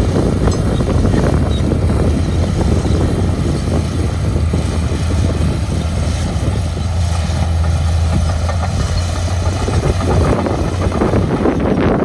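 Heavy diesel engine of construction machinery running steadily with a deep, even hum.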